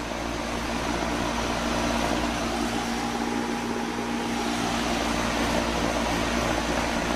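Kenmore 3-ton outdoor air-conditioning condensing unit running steadily, a low compressor hum under condenser-fan air noise, while the system is undercharged with refrigerant.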